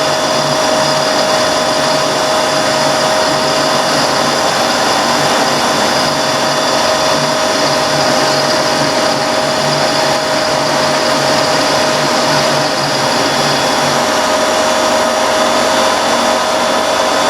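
Benchtop mini mill running with a steady whine while milling the rounded top edge of a steel band iron strip flat. A lower pulsing sound stops about three-quarters of the way through, while the whine carries on.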